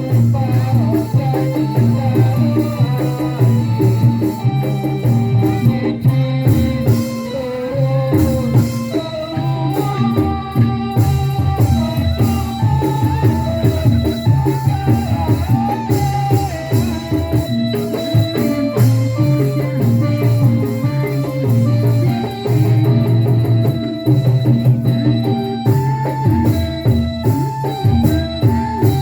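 Band music: a keyboard melody over a steady drum beat and a pulsing bass line.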